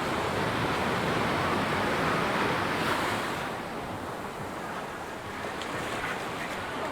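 Ocean surf washing on a sandy beach: the sound of a wave swells for the first three seconds, then eases off as it washes out.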